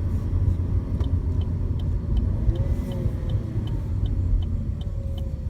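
Inside a moving 2017 Chevy Sonic RS: steady low road and engine rumble, with a turn signal ticking evenly about two and a half times a second from about a second in.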